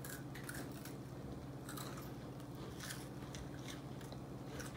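Faint crisp crunches of people biting and chewing chocolate-covered Kit Kat wafer pieces, scattered clicks every half second or so, over a low steady hum.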